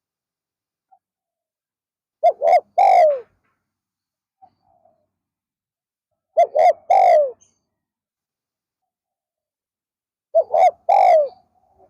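Spotted dove cooing: three calls about four seconds apart, each two short notes followed by a longer falling coo.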